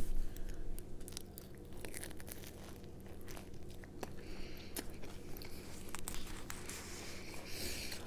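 Close-up chewing and biting of chicken salad and everything bagel, with small crunches and mouth clicks; the loudest bite comes right at the start.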